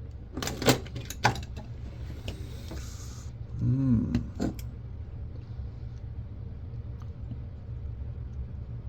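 Small hand tools clicking and clattering as they are handled in a tool kit, with two sharp clicks about a second in and more clatter around four seconds.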